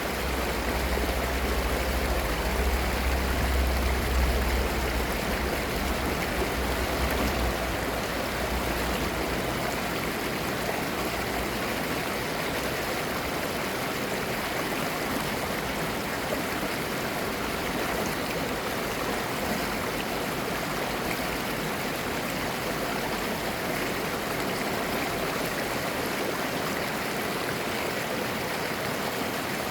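Clear mountain-valley stream babbling steadily over its bed. A low rumble underlies it for the first several seconds and fades out about eight seconds in.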